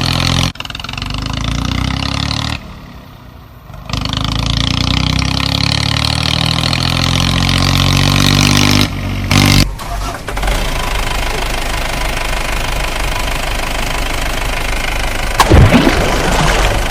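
Engine running and revving, its pitch climbing slowly for several seconds, broken off abruptly a few times; a sharp loud clatter sounds about fifteen seconds in.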